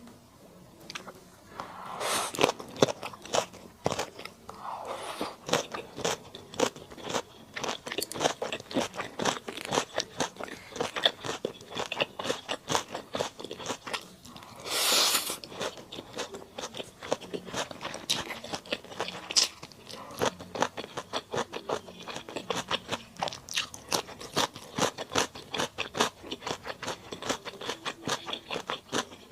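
Close-miked chewing and crunching of spicy mala duck: rapid wet crackles and bites with no pause, plus one louder, hiss-like burst lasting about a second midway.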